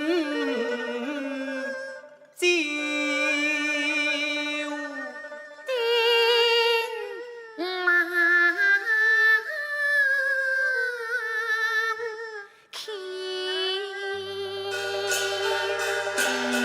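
Cantonese opera singing: a voice drawing out long melismatic notes with vibrato in several phrases, with steady low accompanying tones coming in near the end.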